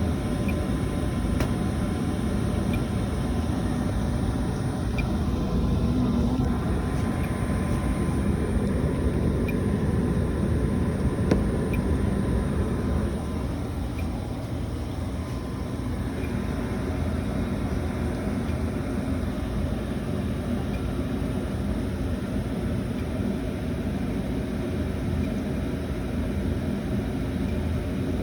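Residential natural-gas furnace running, a steady roar of burner flame and blower air, with faint regular ticks. The sound eases slightly about thirteen seconds in.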